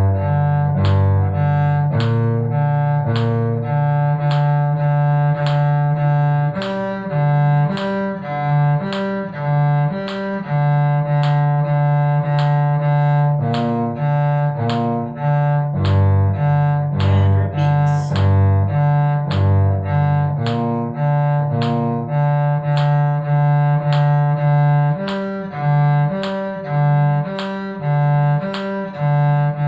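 Cello bowing a G minor arpeggio exercise in steady, evenly paced notes, alternating each arpeggio note with the open D string.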